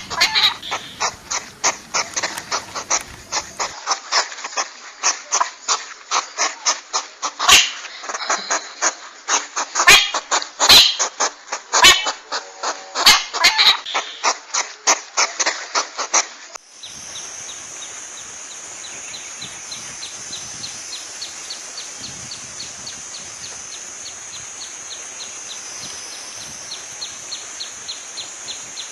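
Animal calls: a run of rapid, repeated calls, several a second, for about sixteen seconds, then a change to a steady high-pitched chirring with fast, even ticks.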